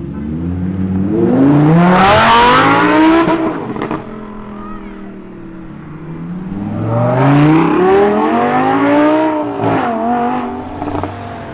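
A supercar engine revving hard under acceleration, twice. Each pull climbs steeply in pitch for about three seconds and then drops off sharply; the second starts about six seconds in.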